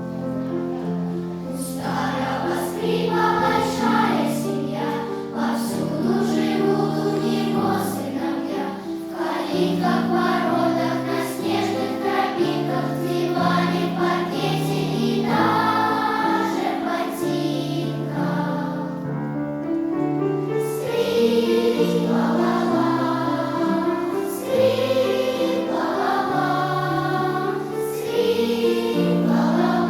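A school choir singing a song in held, stepwise notes, with no break.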